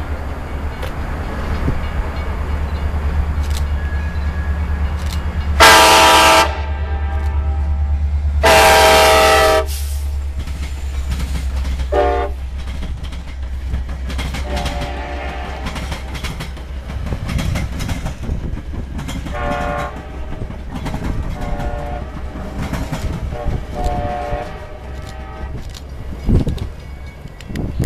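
Metra diesel-hauled bi-level commuter train passing, its locomotive engine running with a steady low drone. The horn sounds two loud long blasts, then a short one, then several softer blasts as the train goes by, over the rumble and clickety-clack of the cars' wheels on the rails.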